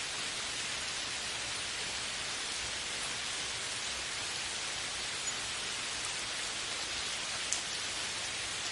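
Steady rain, an even hiss of many drops, with a couple of slightly louder single drop ticks about five and seven and a half seconds in.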